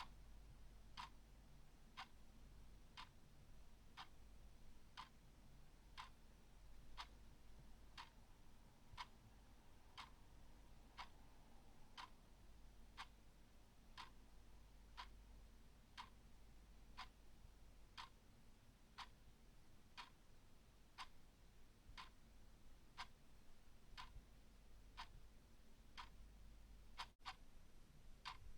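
Clock ticking steadily and faintly, about one tick a second, over a low steady hum.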